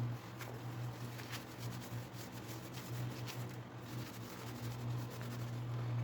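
Sandpaper rubbed by hand over a knife handle: faint, irregular scratchy strokes and light ticks over a steady low hum.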